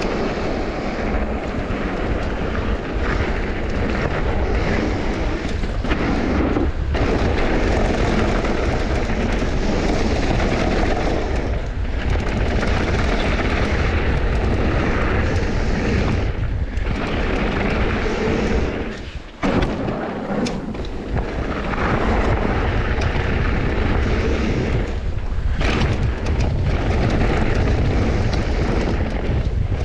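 Wind buffeting the microphone, a loud continuous rumble, and the rattle of a mountain bike riding fast down a rough bike-park trail, with a few brief dips where the rush lets up.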